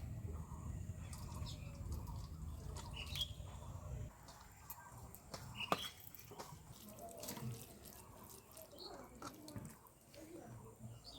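Eating a meal of rice and fish curry by hand: scattered small clicks and taps of fingers and plate, with a low rumble during the first four seconds.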